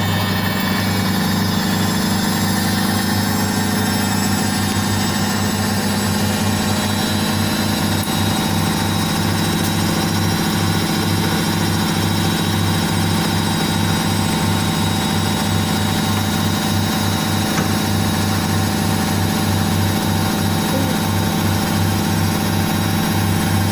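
Indesit IWSC5085 front-loading washing machine running steadily at speed, a loud motor hum with a high whine over it and a fast flutter in the low hum, as in a spin cycle.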